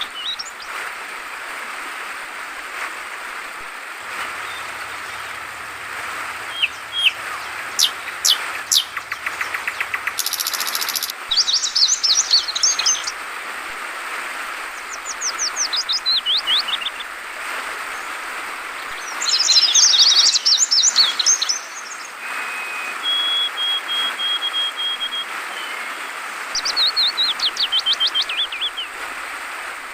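Yellow-vented bulbul (trucukan) calling in several bursts of fast chirps and descending trills, with a run of steady repeated notes a little past the middle, over the steady hiss of trickling, flowing water.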